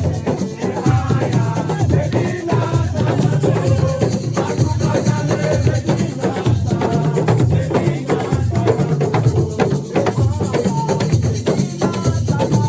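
Live assiko music: drums and shakers play a busy, continuous rhythm while voices sing over it.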